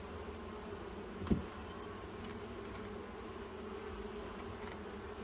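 Honeybees buzzing steadily around an open hive, a dense, even hum. A brief knock sounds about a second in.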